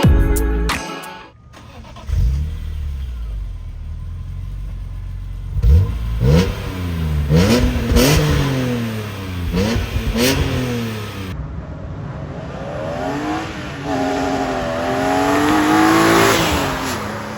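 BMW E46 M3's S54 straight-six through a Valvetronic Designs valved sport muffler: a low idle, then several quick revs that rise and fall, then a longer rev with the pitch climbing steadily near the end.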